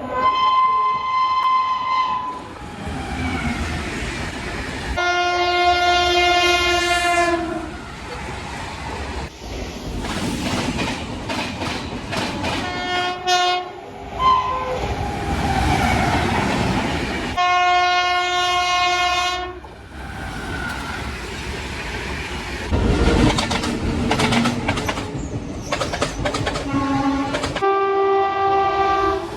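Indian Railways express trains passing at speed: five long locomotive horn blasts, each a steady chord, alternating with the running noise of passing coaches and a fast clickety-clack of wheels over rail joints. The sound changes abruptly several times, as between separate passing trains.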